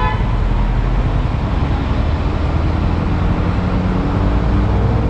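Steady rumble of idling vehicle engines in slow traffic at a toll plaza, with a few engine hums slowly shifting in pitch.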